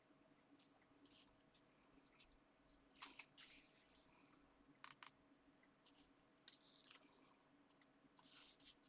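Near silence, with faint, scattered rustles and light taps of paper and card being handled and pressed down.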